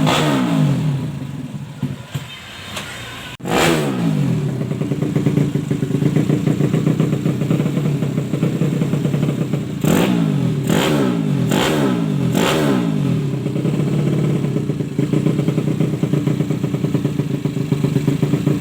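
Yamaha Jupiter 130 four-stroke motorcycle engine revving hard, its pitch rising and falling. It cuts out briefly at about three seconds, then runs loud and high again, with four sharp cracks about ten to twelve seconds in.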